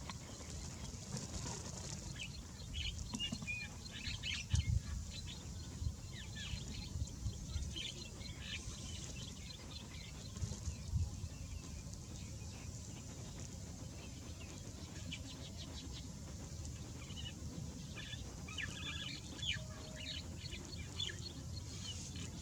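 Birds chirping in many short, scattered chirps over a low background rumble, with a couple of dull thumps about four and eleven seconds in.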